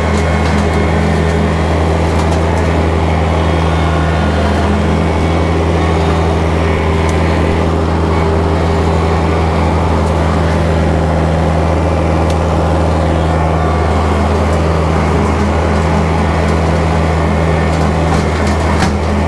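Kubota tractor's diesel engine running steadily at working speed, driving a rotary brush cutter (bush hog), with a few faint scattered clicks.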